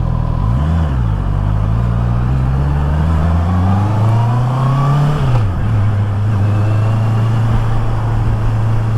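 Honda CB650R inline-four engine under way. The revs blip up and down briefly, then climb steadily for about four seconds, drop back about five and a half seconds in, and then hold steady. Road and wind noise runs underneath.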